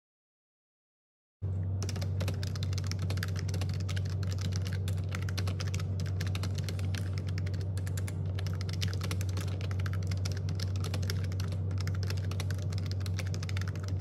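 Fast typing on a computer keyboard: a dense run of keystroke clicks over a steady low hum, starting after about a second and a half of silence.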